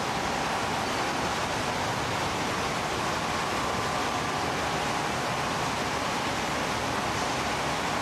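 Steady rushing noise of wastewater pump-station machinery, with a faint steady tone above it.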